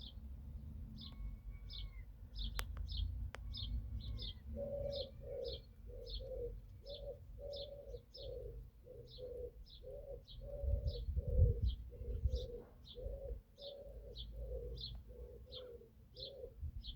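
Garden birdsong: a bird repeats a short high note about twice a second. From about five seconds in, a lower repeated call joins it at much the same pace, over a low rumble.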